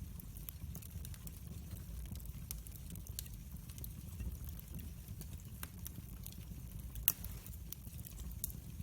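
Wood fire burning in a fireplace: a low steady rumble of the flames with scattered crackles and snaps, and one louder pop about seven seconds in.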